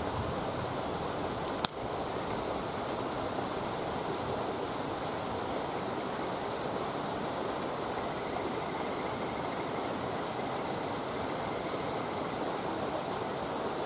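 Wood campfire burning, with one sharp pop of burning wood about a second and a half in, over a steady rushing hiss.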